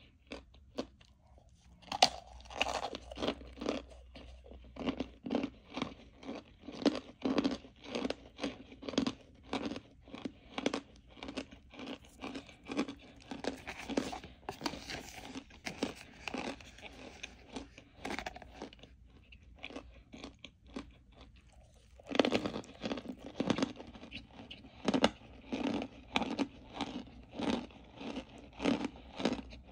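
A person biting into a hard, crunchy chunk close to the microphone and chewing it in a steady rhythm, about two chews a second. There is a sharp bite about two seconds in, a short pause past the middle, and a fresh crunchy bite followed by more chewing.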